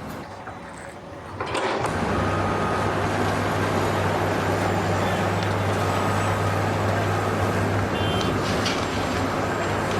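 A heavy vehicle's engine running steadily with a deep, constant hum, coming in loud about a second and a half in.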